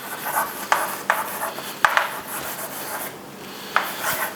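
Handwriting: a series of short, irregular scratching strokes with a few sharper taps as a calculation is written out.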